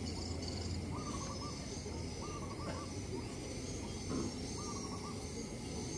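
A bird calling three times, a short warbling note each time, over a steady high insect-like buzz and a low outdoor rumble.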